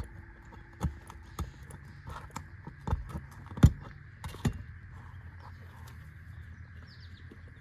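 Steel flat bar prying a roofing nail out of an asphalt shingle: about six sharp metallic clicks and knocks with scraping in the first half, the loudest a little past halfway through that run.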